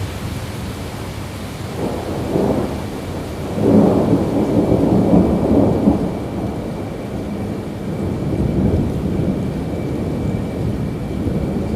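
Rolling thunder over steady rain. A low rumble swells about two seconds in, comes back strongest from about four to six seconds, then fades into the rain.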